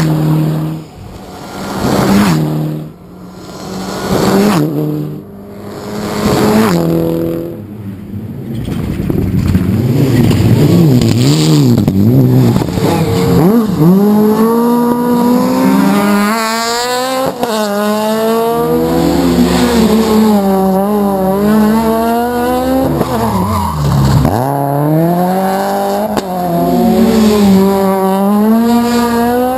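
Rally car engine revving hard: short surges of revs about every two seconds, then a continuous run with the pitch climbing and dropping again and again through gear changes and lifts, with tyre squeal.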